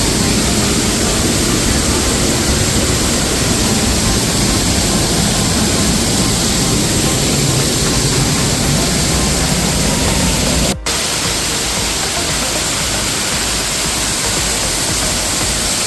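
Steady roar of rushing, falling water, an even loud hiss that cuts out for a split second about eleven seconds in.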